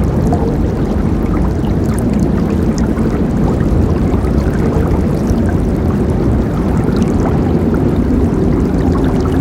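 River water rushing and gurgling steadily over rocks, with small splashes and droplets through it.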